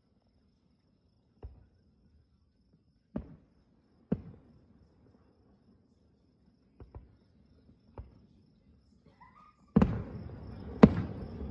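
Distant aerial fireworks bursting: single sharp bangs every second or two, the loudest ones near the end. Crickets' steady chirring comes back in near the end.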